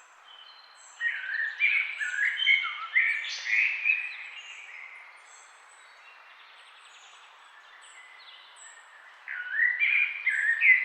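Wild songbirds singing. A loud phrase of quick warbled notes starts about a second in and lasts about three seconds, and a second phrase comes near the end, over fainter high chirps from other birds and steady background noise.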